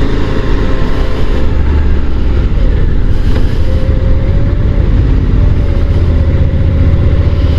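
Motorcycle engine pulling steadily up a climb, heard under heavy wind rush on the rider's microphone; a faint steady engine tone comes in about halfway through.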